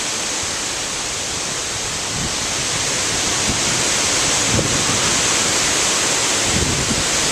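Strong gusty wind: a loud, steady rush, with low buffeting thumps on the microphone, swelling a little a couple of seconds in.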